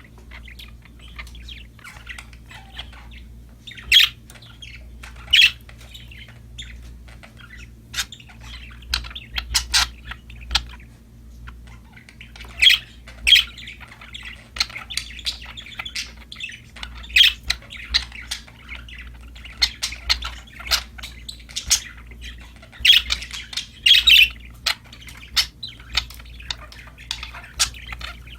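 Budgerigars chattering and chirping, with many sharp, loud squawks over a continuous warbling background. A steady low hum runs underneath.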